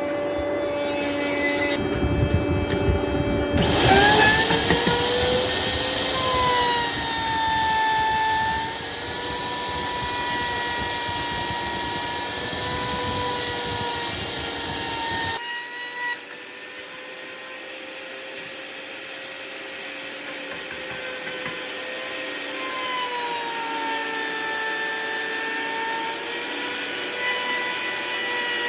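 Electric power tool working wood: a steady motor whine that dips in pitch and recovers as it is pressed into the work, over a rough cutting and grinding noise. About halfway through, the low rumble drops away abruptly and the whine carries on more thinly.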